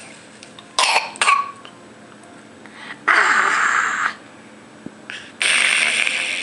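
A young child making silly raspy throat noises: two short sharp bursts about a second in, then two longer breathy rasps of about a second each.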